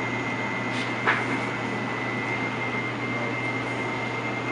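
Steady background hum and hiss with a thin, high steady whine, broken by one short sharp click about a second in.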